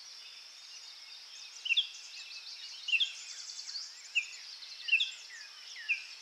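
Birds chirping: short, mostly falling chirps about once a second over a steady high hiss.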